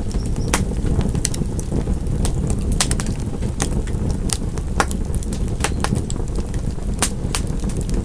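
Wood fire crackling: a steady low rumble of flames with sharp, irregular pops and snaps several times a second.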